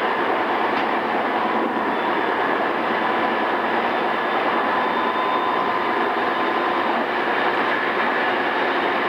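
Running noise inside an unrenewed JR East E217 series commuter train's motor car at speed, a steady rumble of wheels on rail with faint steady motor tones running through it.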